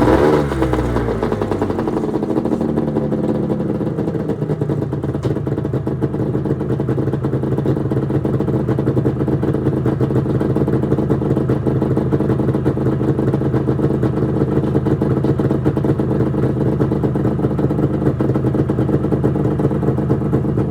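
Arctic Cat ZRT 600 snowmobile's three-cylinder two-stroke engine, revved briefly at the start and then idling steadily.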